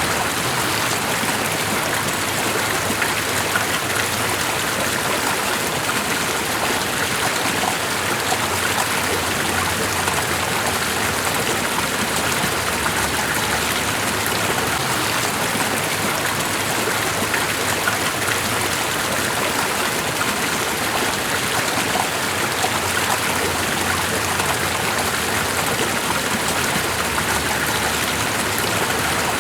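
Steady, unbroken rushing of water, with no music or other sound over it.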